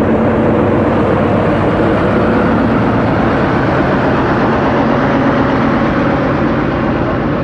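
A locomotive working close by: a loud, steady running noise with a faint steady hum, unchanging throughout.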